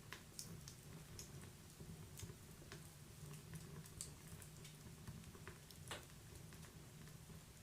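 Wood fire burning in a fireplace, crackling faintly. Irregular sharp pops and snaps come a dozen or so times over a low steady rumble, and the loudest snap falls about six seconds in.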